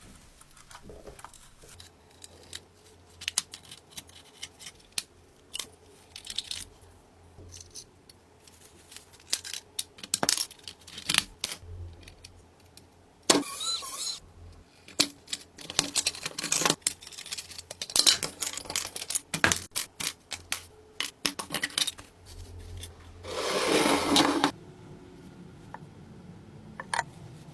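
Hand tools on a car body: a long series of metal clinks, taps and knocks. Two short, louder bursts of rushing noise come in, one about halfway through and one a few seconds before the end.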